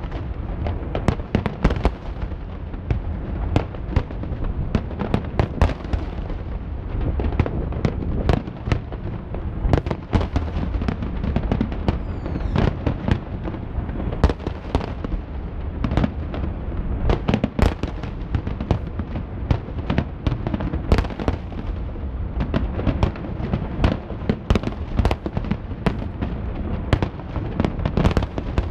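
Fireworks display: aerial shells bursting in a dense, continuous run of sharp bangs, several a second, over a steady low rumble, with a short rising whistle about halfway through.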